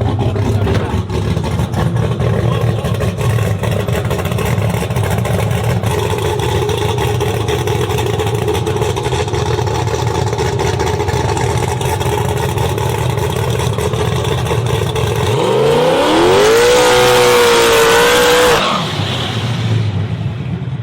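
Twin-turbo Chevy Silverado's engine running with a heavy, steady low rumble. About fifteen seconds in, its pitch rises steeply as it launches and accelerates, growing loudest, and then it drops away suddenly a few seconds later.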